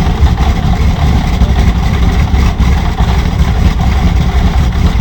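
Sound module in a scale-model Halifax playing a recorded Bristol Hercules radial engine at idle: a steady, loud, low rumble.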